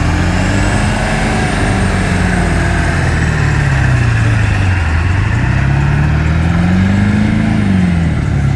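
Truck engine revving, its pitch climbing over the first second or so, sinking back, then climbing again to a higher peak near the end before dropping off.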